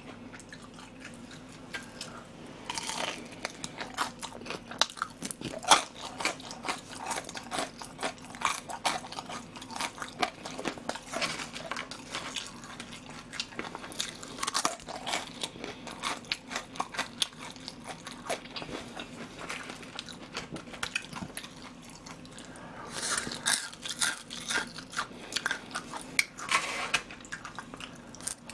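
Close-miked chewing of crispy battered fried pork (soy-sauce tangsuyuk): runs of crisp crunches with each mouthful, starting after a quiet first couple of seconds.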